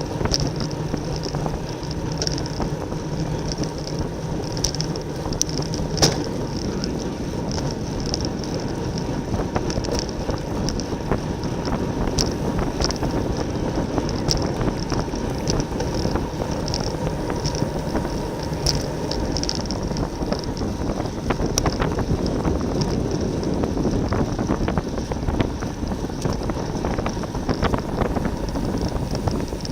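Wind rushing over the microphone of a road bike racing at speed, with steady tyre and road noise and repeated light clicks and rattles from the bike; one sharp click about six seconds in stands out as the loudest moment.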